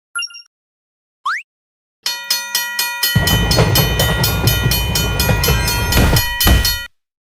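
A short cartoon beep and a rising whistle-like boing, then from about two seconds in a railway level-crossing warning bell clanging at about four strokes a second. A train rumbles past from about a second later, and both cut off suddenly near the end.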